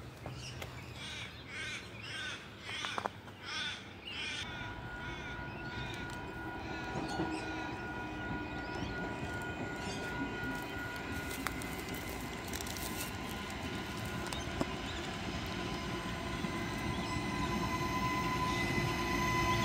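A bird calls about six times in the first few seconds. Then an Adelaide Metro diesel railcar approaches, its engine and wheels on the rails growing steadily louder with a few held tones.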